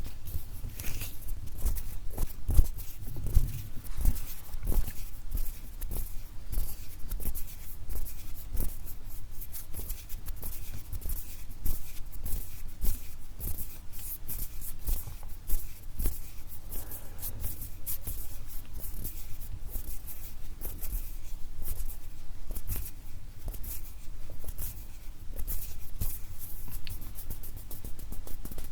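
ASMR hand sounds: a dense, rapid patter of small clicks and rustles of skin, with occasional soft low thumps.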